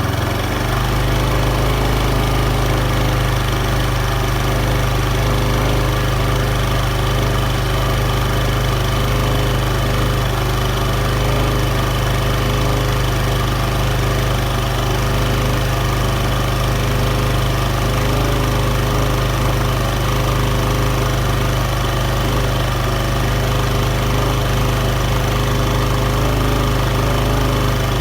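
Engine running steadily at light throttle, with an abnormal noise from the drivetrain.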